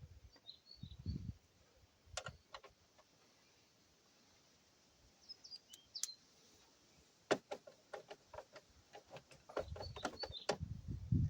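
Scattered small clicks and taps of hand work on small parts, with a quick run of them in the second half and a low knocking rumble near the end. Birds chirp briefly in the background a few times.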